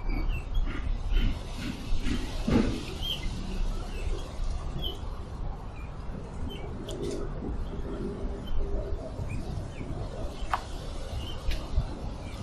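Short, scattered bird chirps spaced a second or more apart over a steady low rumble, with a sharp click about ten seconds in.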